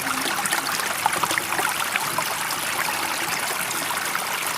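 Running water: a steady, even rush with small trickling splashes scattered through it.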